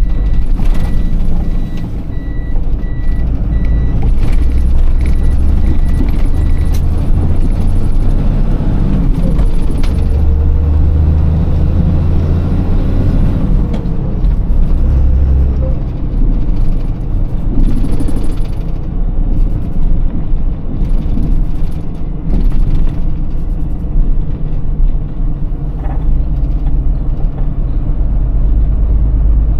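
Iveco Tector truck's six-cylinder diesel engine running under way, its low rumble rising and falling as it pulls through the gears. For the first seven seconds or so an electronic beep repeats steadily, then stops.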